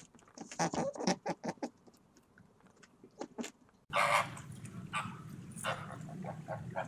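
Short, repeated squeaks and calls from an animal, in two separate bursts; the sound changes abruptly near the middle.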